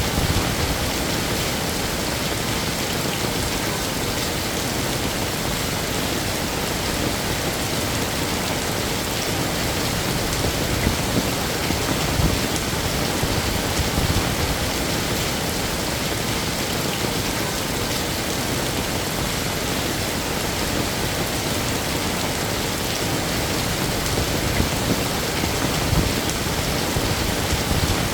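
Heavy rain falling steadily on surfaces, an even hiss with scattered louder drops and splashes.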